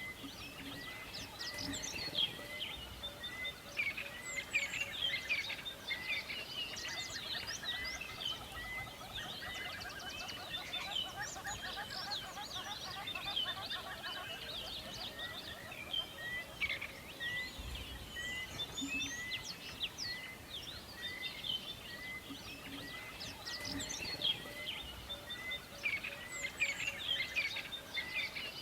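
Forest bird chorus: many birds singing and chirping at once over a soft background hiss, with one short note repeated about once a second.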